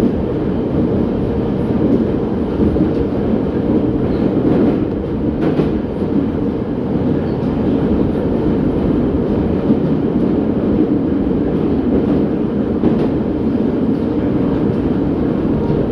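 An 81-717.6 metro train running steadily through the tunnel between stations, heard from inside the car: an even, heavy rumble of wheels and running gear, with a few faint clicks from the rails.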